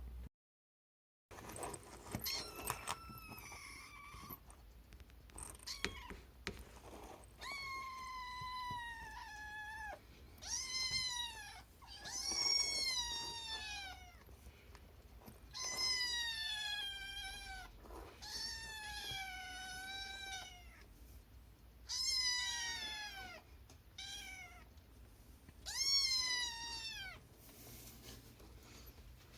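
Domestic cat meowing over and over, about a dozen drawn-out, high-pitched meows, each rising and then falling in pitch.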